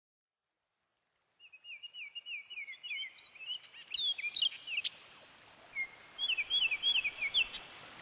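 Birdsong: runs of clear whistled notes, each sliding down in pitch, repeated about four times a second, with other higher chirps in between, over a faint outdoor hiss. It starts after a second and a half of silence.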